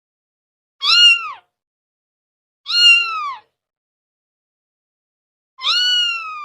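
Domestic cat meowing three times: two short meows that rise and fall, then a longer drawn-out meow near the end.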